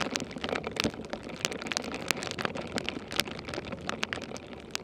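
Scattered crackling ticks over a soft rustle, from snow and clothing as someone trudges through deep, fresh, falling snow.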